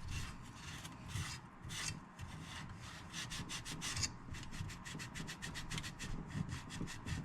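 Rapid back-and-forth rubbing strokes of a cleaning wipe inside an old stereo unit, a few a second at first and quickening toward the end.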